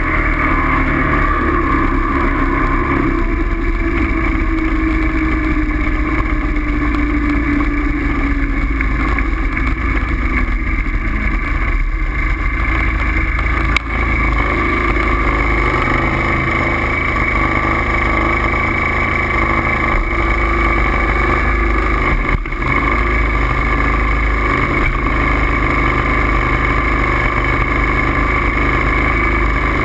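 A steady engine drone, its pitch falling slowly for several seconds near the start, with two brief dips in level around the middle.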